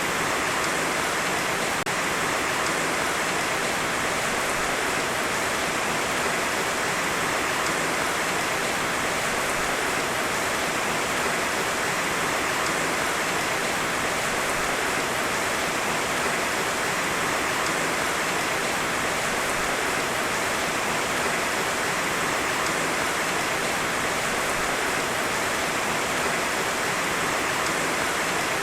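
Heavy rain falling steadily in a dense, even hiss without thunder.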